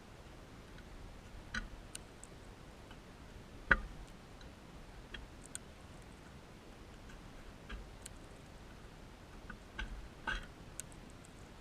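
Scattered small clicks and taps at uneven intervals, with one sharper click about four seconds in, over a faint steady hiss.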